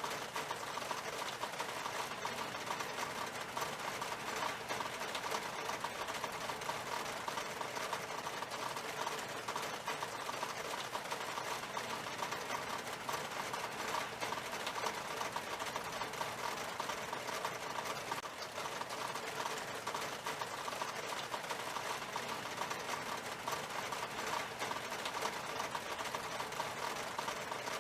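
Rain falling on window glass: a steady, dense hiss of drops with countless small ticks, unchanging throughout.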